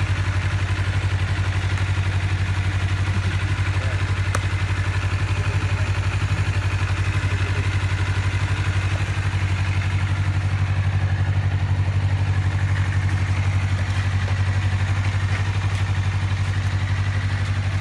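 Motorcycle engine idling steadily after a start, left running to warm up until the engine is hot.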